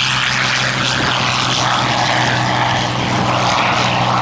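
Propeller-driven WWII fighter with a Rolls-Royce Merlin piston engine flying in display, a loud, steady engine drone whose higher tones waver slightly as it moves.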